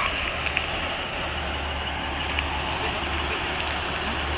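Jeep Cherokee engine idling steadily, with a few light clicks over it.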